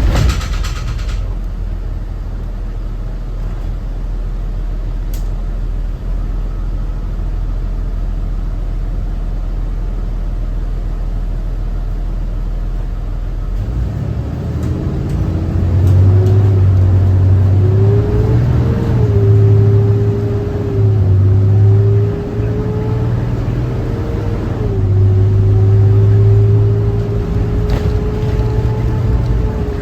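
Cummins ISB 6.7 diesel engine of a 2018 Thomas Saf-T-Liner C2 school bus, running with a steady low rumble. About halfway through, the bus accelerates: a heavy low drone swells and a whine climbs in pitch, dipping a few times before climbing again.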